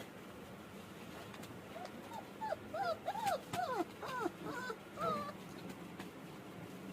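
German shepherd puppy whimpering: a quick run of a dozen or so short, high-pitched cries that starts about two seconds in and stops a little after five seconds.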